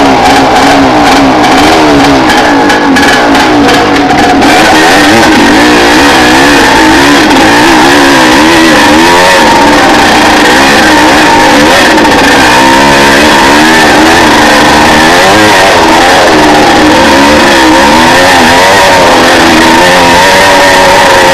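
Trail motorcycle's engine running loud under constantly changing throttle, its pitch rising and falling as it climbs and rides a rough dirt track. A run of knocks and rattles comes through in the first few seconds.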